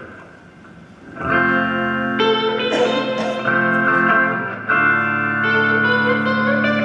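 Electric guitar playing sustained chords, coming in about a second in and moving to a new chord every second or so.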